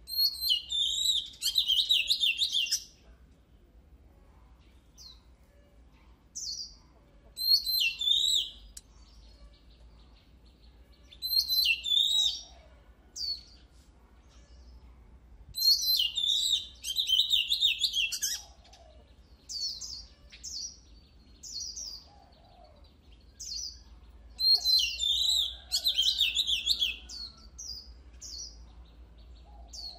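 Oriental magpie-robin singing: loud phrases of rapid, varied whistled notes, each one to three seconds long, separated by pauses broken by single short notes.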